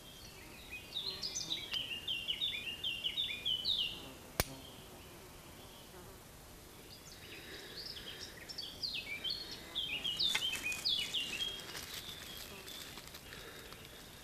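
A songbird sings two quick phrases of falling chirps, a few seconds apart. A single sharp click comes between them, and a few lighter clicks come during the second phrase.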